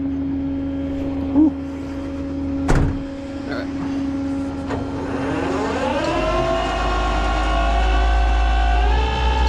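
A steady hum, broken by two sharp knocks, then about five seconds in an engine starts: it rises in pitch over about a second and settles into a steady fast idle with a deep rumble, stepping up a little near the end.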